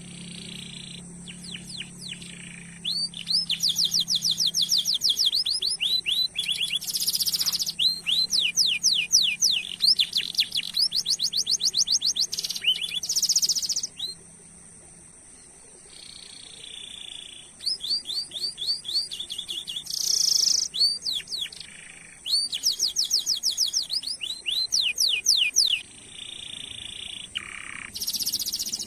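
Domestic canary singing in long rolls: fast trains of repeated down-sweeping notes, several a second, lasting a few seconds each, broken by short buzzy bursts. A steady high tone runs beneath the song.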